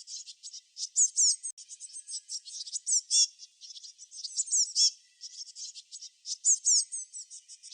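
Songbird chirping: quick, high, thin notes with downward-sweeping chirps, in short phrases repeated every second or two.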